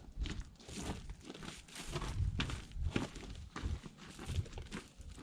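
Hikers' footsteps crunching on the gravelly floor of a desert wash, about two steps a second.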